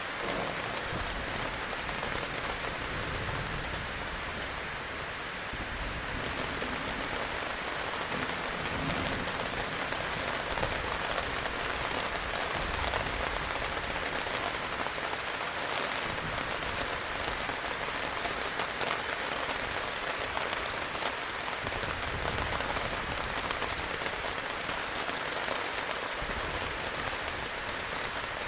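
Heavy rain falling steadily, a dense even patter with occasional faint low rumbles underneath.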